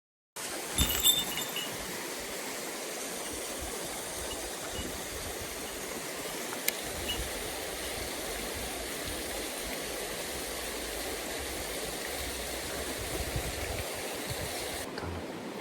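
Mountain stream running: a steady rush of flowing water. A few sharp knocks about a second in, and a single click near the middle.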